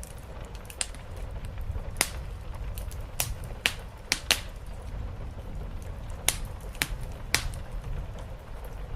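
Wood fire in a fireplace crackling, with irregular sharp pops, about nine loud ones spread unevenly, over a steady low rumble.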